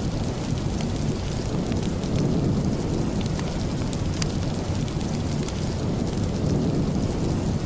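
Steady rain with a deep, rumbling hiss and scattered sharp ticks.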